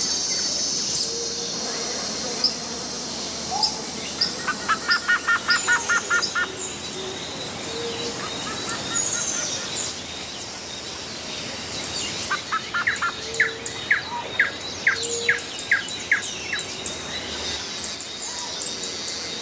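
Several wild birds calling and chirping over a steady background hiss. About five seconds in comes a quick run of repeated notes, about five a second. Later a slower series of sharp, rising notes follows, about two a second.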